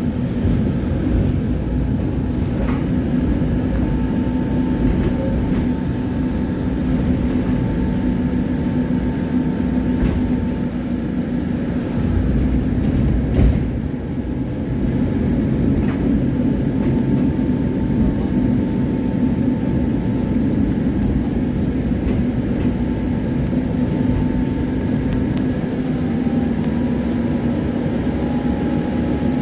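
Tram running along the line: a steady low rumble of wheels on rails with a steady hum over it, and one short louder knock about halfway through.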